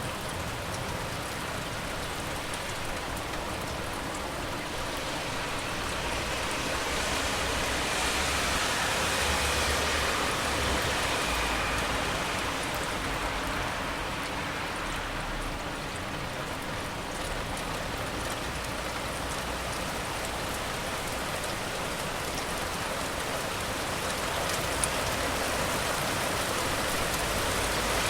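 Steady rain hissing, with traffic on a wet road mixed in; the hiss swells and fades about a third of the way in, over a low rumble.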